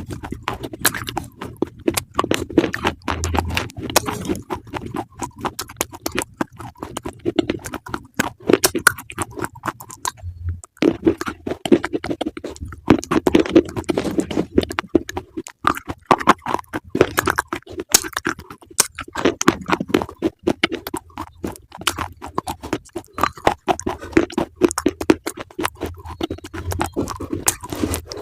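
Close-miked crunching and chewing of a brittle food in the mouth: dense crackling bites with brief pauses about ten and fifteen seconds in.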